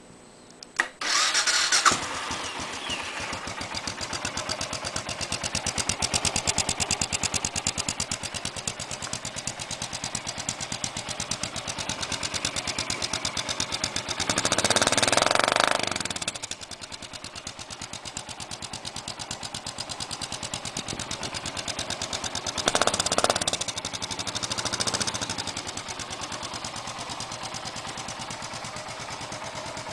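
Suzuki Boulevard S40 single-cylinder motorcycle engine starting about a second in and then running with an even pulse through second-hand Harley Dyna stock mufflers. The mufflers are fitted with homemade, partially blocked baffle inserts to quieten them after the stock baffles were drilled out. The engine is revved briefly twice, around the middle and again later, and otherwise idles.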